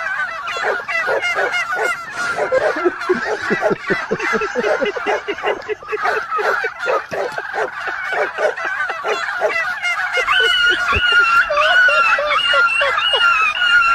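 A flock of turkeys gobbling, many birds calling at once with the calls overlapping throughout.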